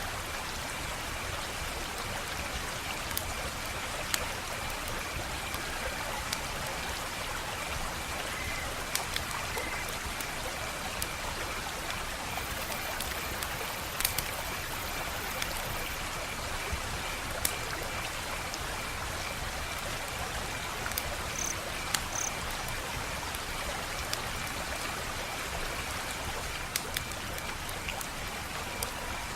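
Wood fire burning with a steady hiss and irregular sharp crackles and pops, a few of them louder. A faint high pulsing trill runs underneath.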